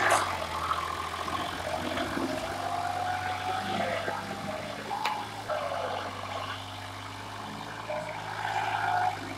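Tractor diesel engine running steadily at low revs, with a brief knock right at the start.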